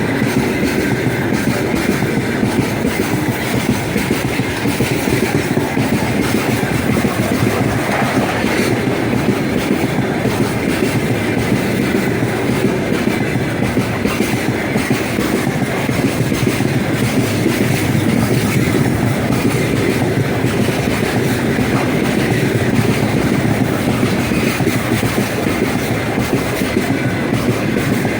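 Freight train wagons rolling past at steady speed: a continuous heavy rumble with the clickety-clack of wheels over rail joints.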